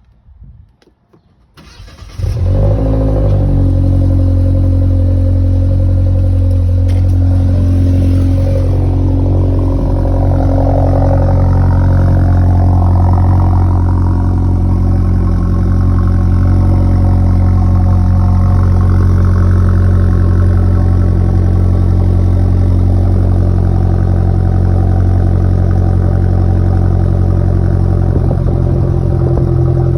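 BMW 118i engine cold-started through a resonator-delete exhaust: the starter cranks briefly, the engine catches about two seconds in and settles into a loud, steady cold idle.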